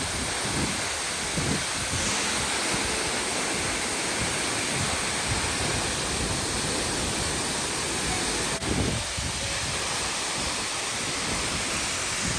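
Steady rushing of a tall waterfall close by, with wind gusting on the microphone. A single sharp click comes about two-thirds of the way through.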